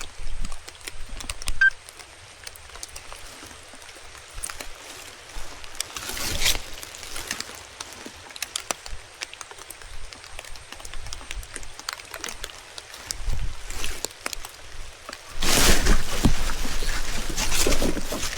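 Rain falling, with many small drops pattering close by, and louder surges of rushing noise about six seconds in and again through the last few seconds.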